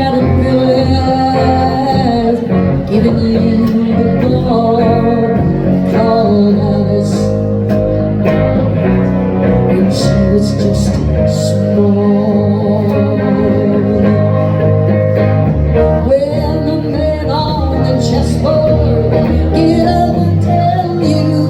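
Live band music: a woman singing over guitar and bass guitar.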